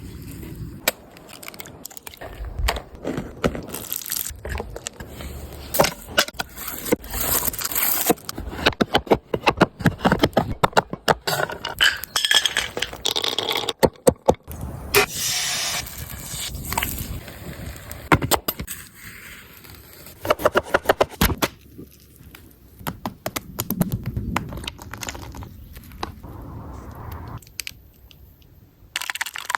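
Cooking utensils and cookware clinking, knocking and scraping as a crepe wrap is made, with many sharp clicks and stretches of scraping.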